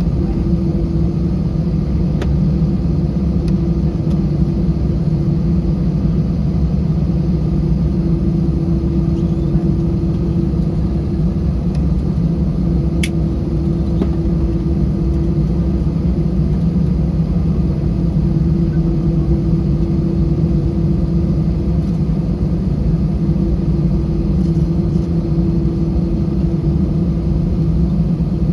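Steady low rumble and constant hum heard inside an Airbus A320 cabin while the airliner taxis, from its engines and cabin air. There is one faint click about halfway through.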